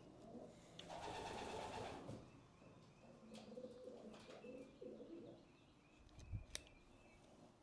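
Racing pigeons cooing faintly in a loft, with a brief rustle about a second in and a sharp click near the end.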